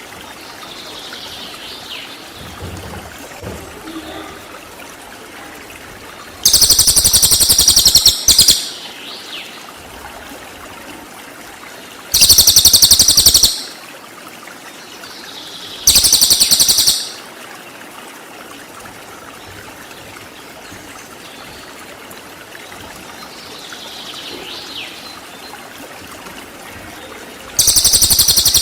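Recorded cililin birdsong: very loud, rapid high-pitched trills ('tembakan') in bursts of one to two seconds, four times, the last starting near the end. Between them, a faint steady hiss with a few soft quieter calls.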